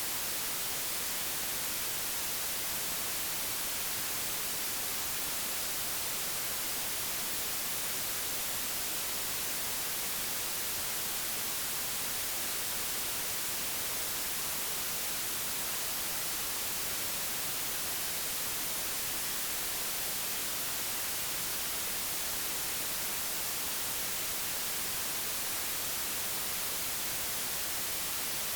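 Steady digitally generated white noise: an even, unchanging hiss with no other sound.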